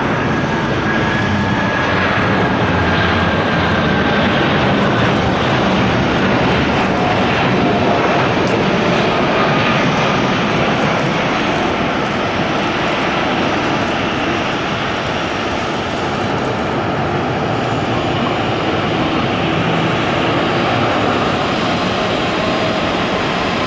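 Airliner engines passing close by: a steady, loud rush of engine noise with faint whining tones that slowly fall in pitch.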